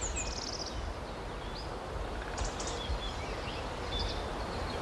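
Small songbirds chirping and twittering in short, scattered calls over a steady low outdoor rumble.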